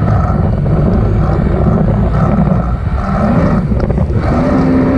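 Jet ski engine running, with wind rumble on the microphone; a steady pitched hum comes in near the end.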